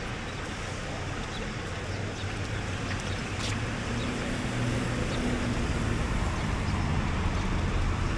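Road traffic: a steady noise of cars going by, growing louder in the second half as a vehicle draws near.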